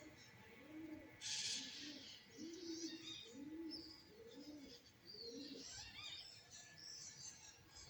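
Pigeons cooing in a run of short, low coos that stop about six seconds in, with small birds chirping and trilling in high notes throughout. A brief burst of hissing noise comes about a second in and is the loudest moment.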